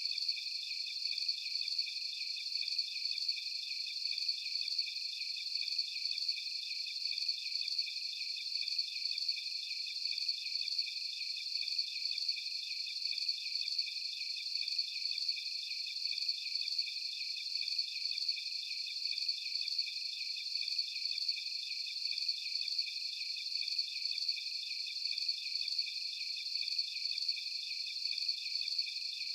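Dense chorus of crickets trilling: a steady, high-pitched, rapidly pulsing drone that never changes.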